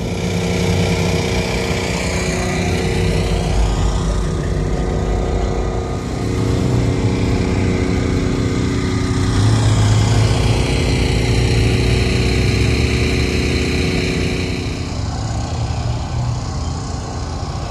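Car engines running at low speed close by: a steady, loud rumble that swells about ten seconds in as one draws nearer.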